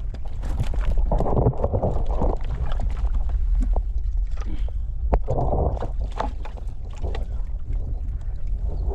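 Water splashing and knocks in a small fishing boat as cage fish traps are hauled, over a steady low wind rumble on the microphone. There are two longer splashes, about a second in and again around five seconds in.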